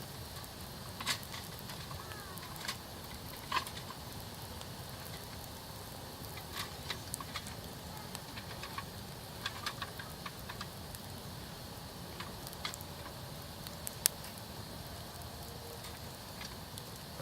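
Wood campfire crackling, with irregular sharp pops and snaps over a steady low rush of burning: a busy run of crackles a little past the middle, and one loud pop near the end.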